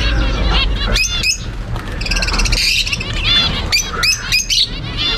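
A group of small birds chirping and squawking together, a rapid run of short high calls that rise and fall.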